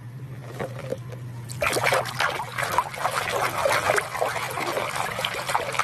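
Water splashing and trickling as a muddy plastic toy animal is washed, starting about a second and a half in, over a faint low hum.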